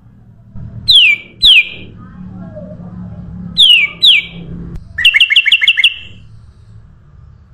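Kutilang emas bulbul calling: two pairs of sharp whistles sliding downward in pitch, then, about five seconds in, a quick run of about six short notes.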